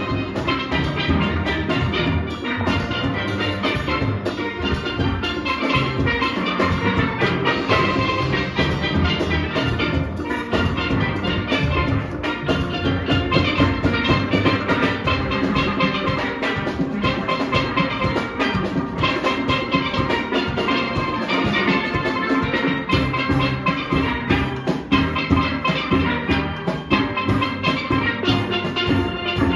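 A steel orchestra playing live: many steelpans sounding fast melody and chords over a driving beat from the engine-room percussion and drums.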